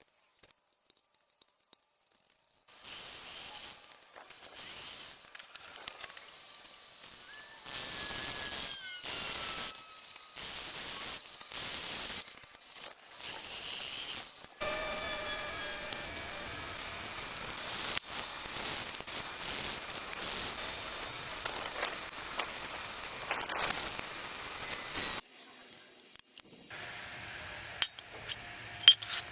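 A hissing noise: short on-and-off stretches at first, then one long continuous hiss of about ten seconds that cuts off suddenly. A few sharp clinks follow near the end.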